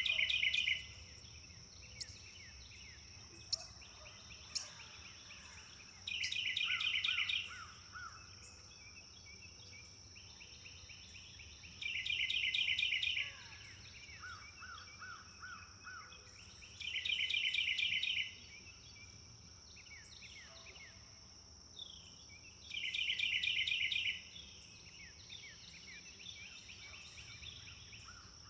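A songbird repeats the same short phrase five times, about every five to six seconds. Each phrase is a rapid, bright trill followed by a few lower, evenly spaced notes. Faint scattered bird calls and a steady high-pitched drone run underneath.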